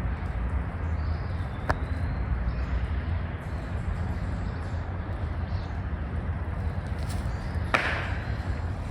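Wind buffeting the microphone, with two sharp knocks: one a little under two seconds in and a louder one near the end.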